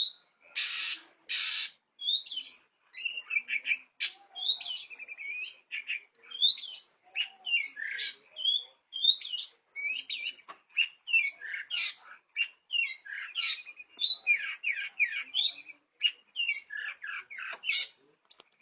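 Long-tailed shrike singing: two harsh, rasping calls near the start, then a fast, varied run of short chirps and whistled notes.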